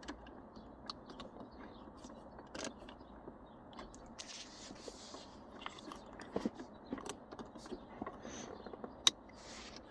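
Shifter trim pieces being pushed and worked into their clips: scattered light clicks, creaks and short scraping noises, with one sharper click about nine seconds in.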